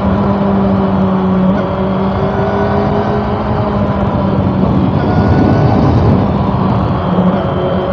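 Honda CB400 Super Four's inline-four engine running under way at fairly steady revs over a dense rush of noise. The engine note eases slightly about a second and a half in and picks up again near the end.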